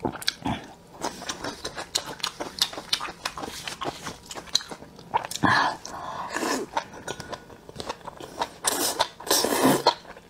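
Close-miked eating: rapid crisp crunching and clicking of chewing, with a couple of longer slurping sounds as a bundle of spicy sauce-coated enoki mushrooms is bitten off a skewer and chewed.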